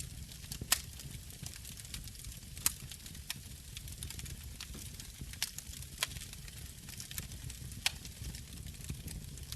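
Wood fire crackling in a fireplace, with about six sharp pops over a low steady rumble.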